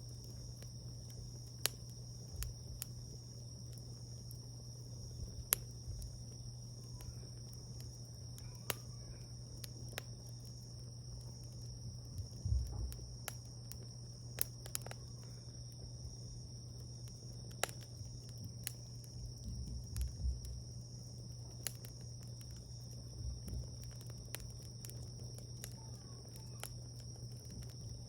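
Wood fire crackling: irregular sharp pops and snaps, a few louder than the rest, over a steady low hum and a steady high-pitched tone.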